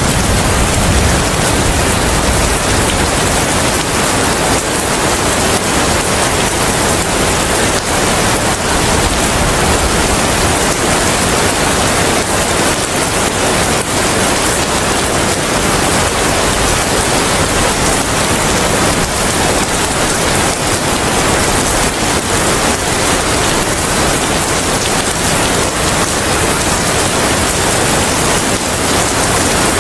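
Steady rain, an even hiss with no let-up. A low rumble dies away in the first second.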